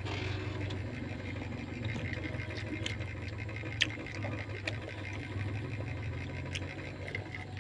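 Chewing of sweet potato close to the microphone, with a few soft clicks scattered through it, over a steady low hum.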